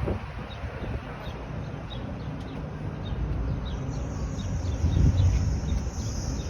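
Outdoor ambience: a small bird chirping in short repeated notes, about two a second, over low wind rumble on the microphone, with a steady high hiss coming in about two-thirds of the way through.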